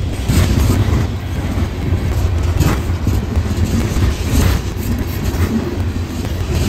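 A train passing close by on the tracks: a heavy, steady low rumble with irregular clacks of wheels over the rail joints.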